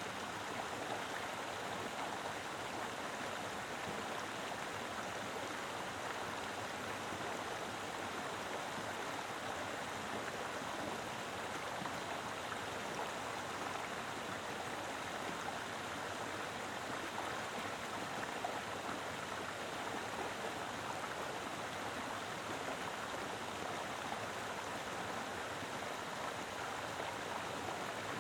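Mountain river flowing over rocks, a steady rushing of water.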